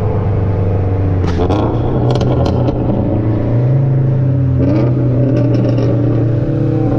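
Turbocharged car engine running hard under acceleration, its low drone holding steady and then stepping up in pitch partway through, with intermittent rattles.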